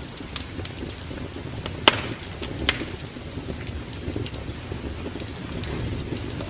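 Wood fire crackling in a fireplace, with a steady low rush under frequent small snaps. Two louder pops come about two seconds and two and a half seconds in.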